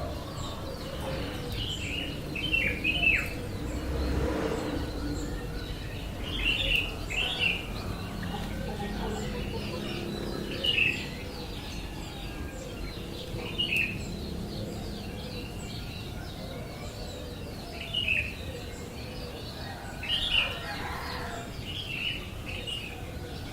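Bird chirping: short high calls, each falling quickly in pitch, given singly or in small clusters every few seconds over a steady low background hum.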